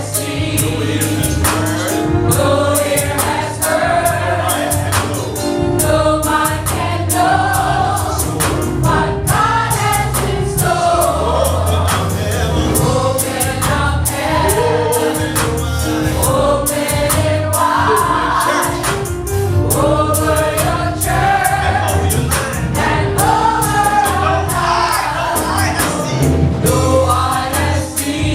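Gospel choir singing a worship song with a live band: a steady drum beat and strong bass under the voices.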